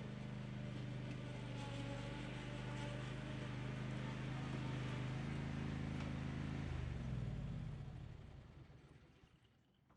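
Craftsman Z560 zero-turn mower engine running steadily, then about seven seconds in it winds down in pitch and dies away as it is shut off.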